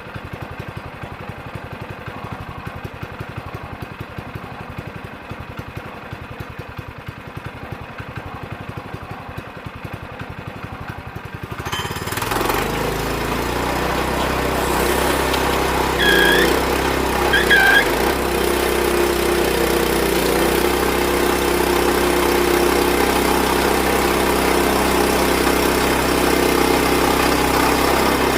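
Portable sawmill's gas engine idling with rapid, even firing pulses, then throttled up about twelve seconds in and running steadily and louder. Two short high squeaks come a little later.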